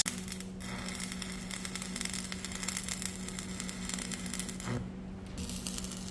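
Stick-welding arc crackling as the rod burns, over a steady low hum. The crackle drops out briefly twice, about half a second in and again near five seconds.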